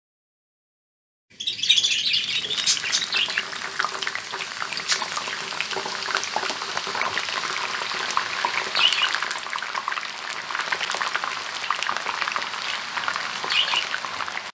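Potato fries sizzling and crackling hard in hot mustard oil in a frying pan: the first, half-cooking fry over a high flame. The sizzle starts suddenly about a second in, is loudest at first, then settles into a steady crackle.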